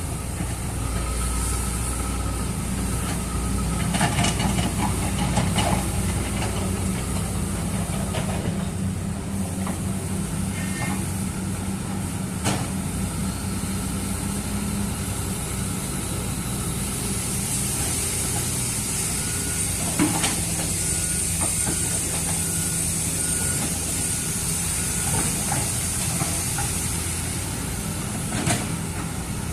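Hydraulic excavator's diesel engine running steadily under load, with a few short metallic knocks and a run of short high beeps about two-thirds of the way through, over a constant hiss.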